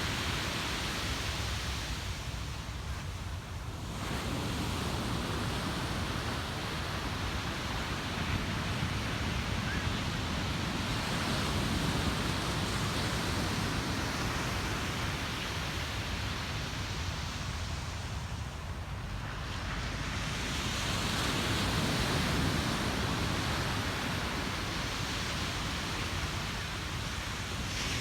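Ocean surf breaking and washing up a beach: a continuous rushing hiss that eases twice, a few seconds in and about two-thirds of the way through, and swells again as the next waves come in.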